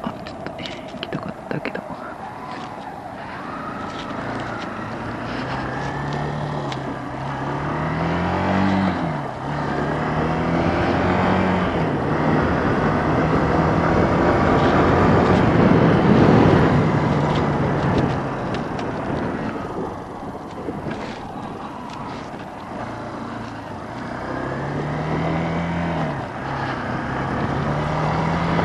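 Kawasaki KLX125's single-cylinder four-stroke engine running under way, its note climbing and dropping back several times as the bike is shifted through the gears, over a steady rush of wind and road noise that is loudest midway.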